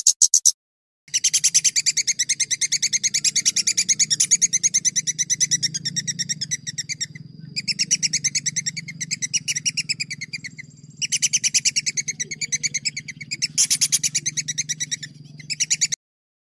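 A songbird's long, fast rolling trill: rapid runs of sharp repeated notes in long phrases with short breaks, cutting off abruptly near the end, over a faint steady low hum.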